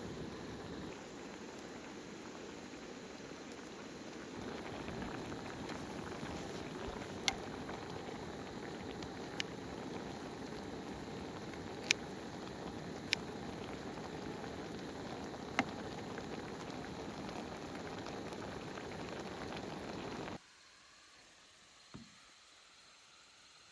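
Steady watery patter with a few sharp ticks, like drops or pops, that cuts off abruptly near the end.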